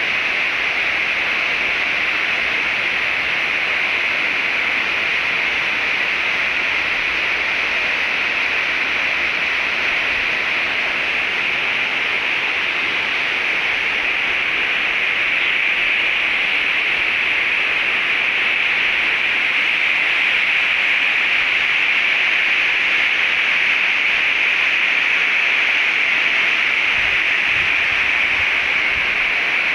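Waterfall: the steady, loud hiss of falling water, swelling slightly about halfway.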